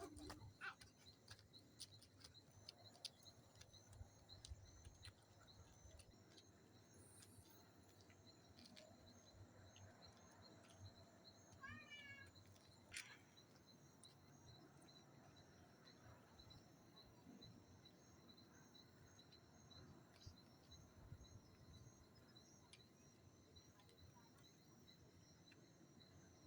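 Near silence: a faint steady high-pitched tone with scattered faint ticks, and a short run of faint chirps about twelve seconds in.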